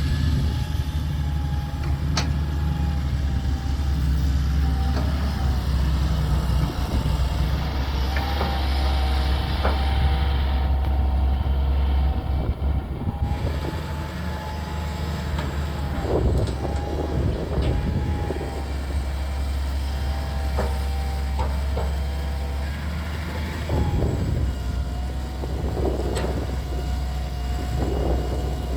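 Excavator's diesel engine running steadily under load, with a steady whine above the low rumble and occasional knocks and clanks from the machine at work.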